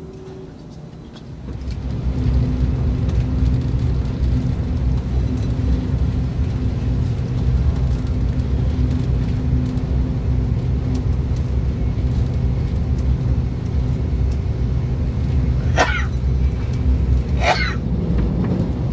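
Steady low rumble of a Korean KTX high-speed train running at speed, heard inside the passenger cabin; the noise jumps up about a second and a half in. Near the end come two brief sharp swishes.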